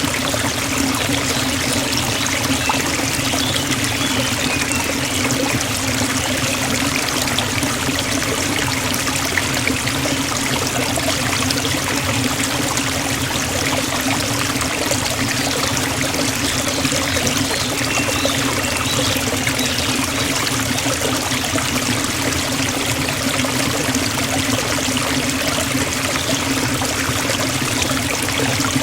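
Forest waterfall: a steady rush of falling water.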